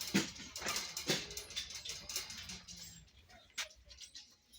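A small dog barking a few times in the first second or so.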